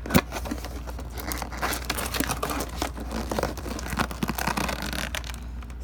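Packaging crinkling and tearing in close handling as a reloadable canister-shell fireworks kit is opened and its launch tube taken out, with one sharp knock right at the start.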